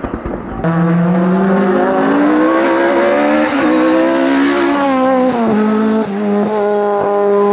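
A hillclimb race car's engine at full throttle. After a brief crackle, the engine sound starts abruptly and its pitch climbs steadily. The pitch then sags and drops sharply about six seconds in, as at a gear change, before holding steady at high revs.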